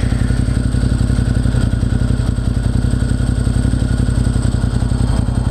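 Motorcycle engine running at a steady pitch while riding, picked up by a helmet-mounted camera.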